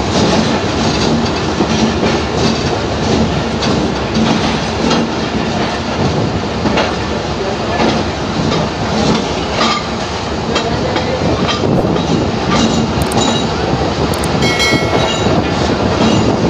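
Passenger train running on the track: a steady rumble with wheels clicking over rail joints, and a brief high squeal near the end.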